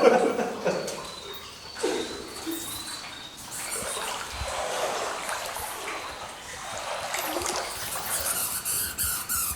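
Water trickling and splashing in a cave. A regular high ticking starts near the end.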